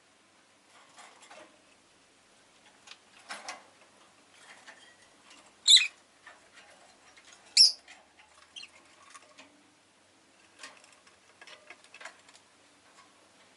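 Rosy-faced lovebird giving two short, shrill chirps about two seconds apart near the middle, between light scattered clicks and scratching.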